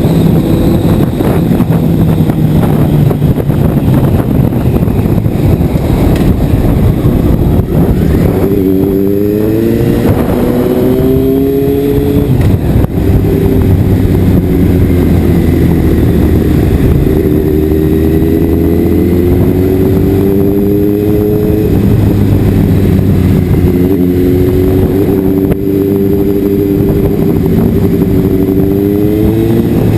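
Motorcycle engine pulling through the gears, its pitch climbing and dropping back at each shift several times, under heavy wind rush on the microphone.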